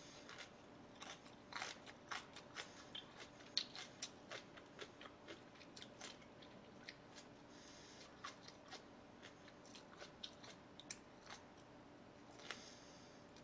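A person chewing food close to the microphone: many small, irregular wet clicks and crunches.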